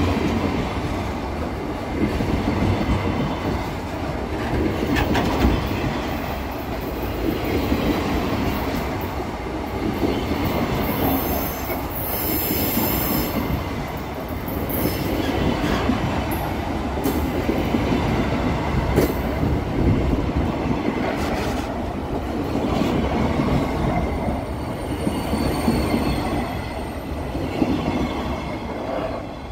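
Loaded covered hopper wagons rolling past close by: a steady rumble of steel wheels on rail with clicks over the rail joints, and a brief high wheel squeal near the middle.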